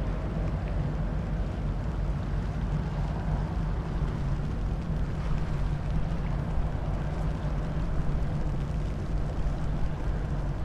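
Diesel engine of a river sand barge running steadily, a low even drone.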